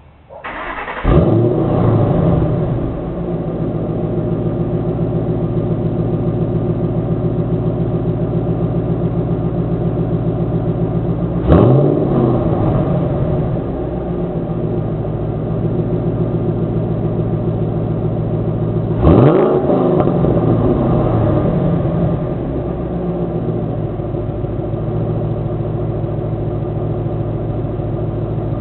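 2007 Mustang GT's 4.6-litre V8 through Kooks long-tube headers, an off-road H-pipe and stock mufflers: it starts up about a second in and settles to a steady idle, with two quick throttle blips, one about a third of the way through and one about two-thirds through, and another rev beginning at the very end.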